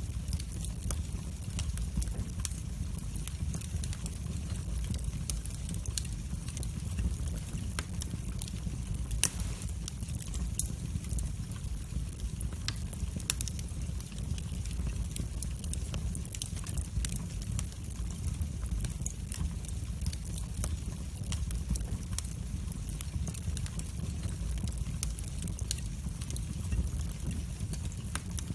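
Wood fire in a fireplace burning steadily with a low rumble, and many irregular sharp crackles and pops, a few louder snaps among them.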